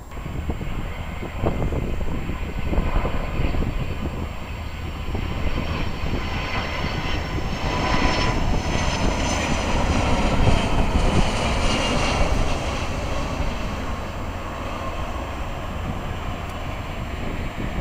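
Jet airliner passing low near the runway end: a steady engine roar with a high whine that grows strongest about halfway through, then eases.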